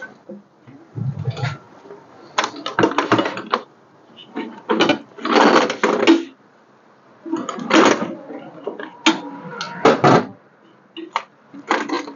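Ratchet wrench clicking in short, irregular bursts as bolts are worked loose on the engine's accessories.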